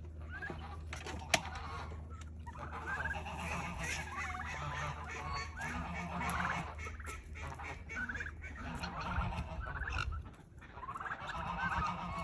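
Domestic turkeys gobbling in repeated bouts, with a single sharp click about a second in.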